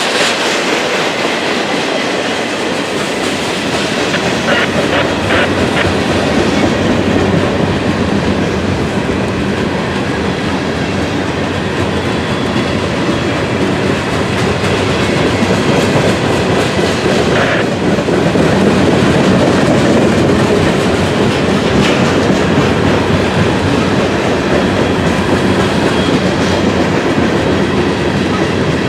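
Freight train rolling past at close range, its cars' wheels clicking over the rails in a steady run, with a few brief faint squeals from the wheels.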